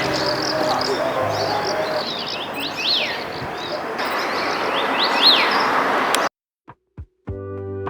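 Several wild birds singing together in a dense chorus, one repeating a sharp whistled note that rises and falls about once a second. The birdsong cuts off abruptly about six seconds in, and after a second's silence with two faint clicks, soft keyboard music begins near the end.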